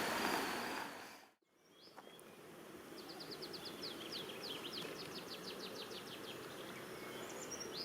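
Outdoor night ambience fades out about a second in. After a short silence, birdsong begins: a fast run of short, high downward chirps, about five a second, lasting several seconds, with a few more chirps near the end.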